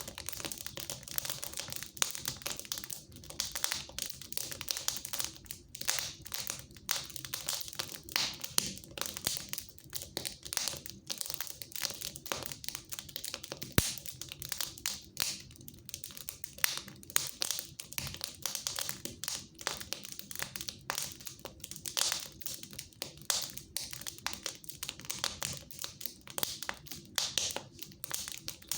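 Wood fire crackling in a fireplace: a steady run of small snaps and crackles, with a few sharper pops.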